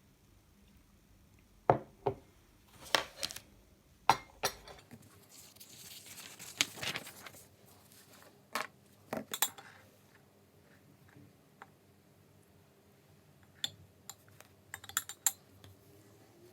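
Light clinks and knocks of small hard objects being handled and set down, with a few seconds of soft rustling noise in the middle and a quick cluster of clicks near the end.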